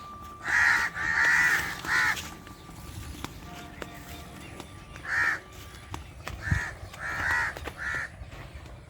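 A crow cawing: three harsh caws in the first two seconds, then a pause, then four more from about five seconds in.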